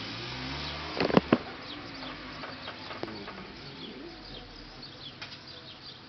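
Birds chirping again and again in short high notes, with a few sharp knocks about a second in.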